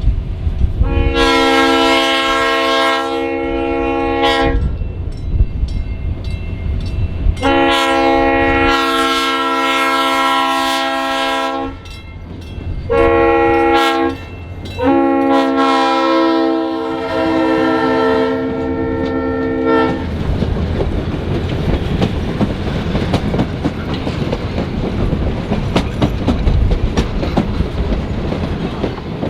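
Diesel locomotive horn on Chicago and North Western 6847 sounding the grade-crossing signal: long, long, short, long. The train then passes with a steady rumble and wheel clatter.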